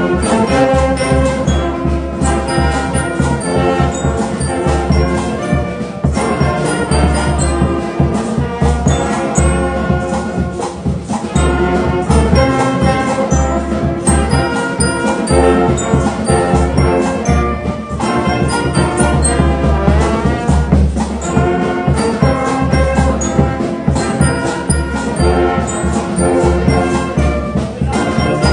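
Band music led by brass instruments, with a steady beat and heavy bass.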